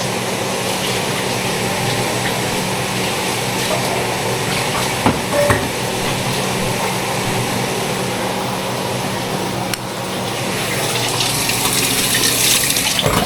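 Ground turkey frying in a pan, a steady sizzle over a low steady hum, with a few clinks of a utensil against the pan. The hiss grows brighter near the end.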